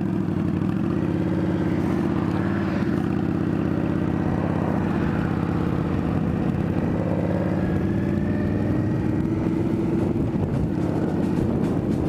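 Indian Scout Bobber's V-twin engine running steadily under way, its pitch rising gently a little past halfway as the bike picks up speed.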